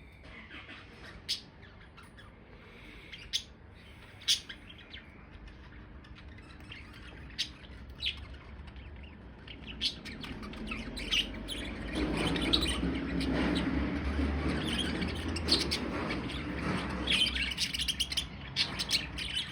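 Budgerigars chirping and chattering: a few separate sharp chirps at first, then the chatter grows denser and louder from about halfway. A low rumble runs underneath in the second half.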